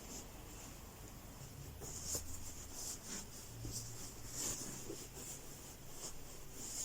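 Faint, irregular rustling and brushing of towel fabric being handled, folded and rolled by hand.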